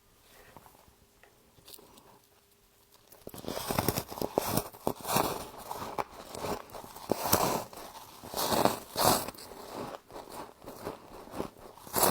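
Close-up crunching of frost being bitten and chewed, starting about three seconds in and going on as a run of crisp, repeated crunches.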